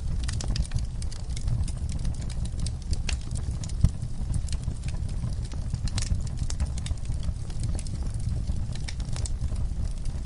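Wood fire burning, with a steady low rumble of flame under constant irregular crackles and snaps of burning wood. One sharp pop stands out a little before the middle.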